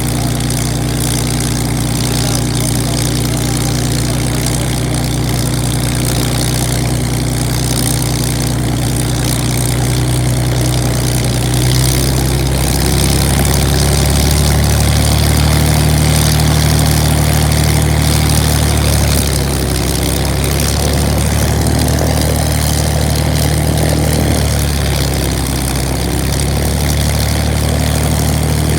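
Supermarine Spitfire's V12 piston engine running on the ground, propeller turning, in a steady drone. About twelve seconds in it runs up louder and higher, eases back after about twenty seconds, and picks up a little again near the end.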